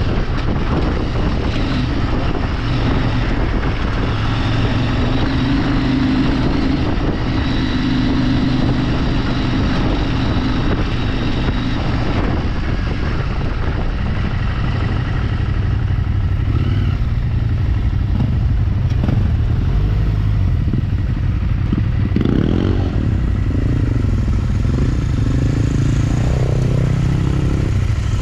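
Motorcycle engine running while being ridden, with a steady drone at first. In the second half its pitch rises and falls repeatedly with the throttle.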